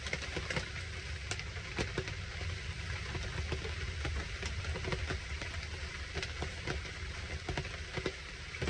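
Heavy rain pouring down, with many separate drops ticking sharply close by over a steady hiss. A low, steady rumble runs underneath.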